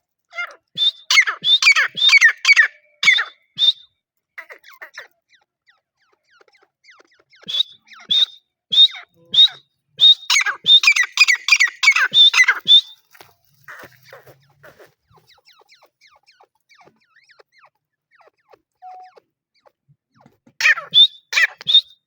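Grey francolin calling: three bouts of loud, rapidly repeated harsh notes, the first about half a second in, the second and longest in the middle, and a short one near the end.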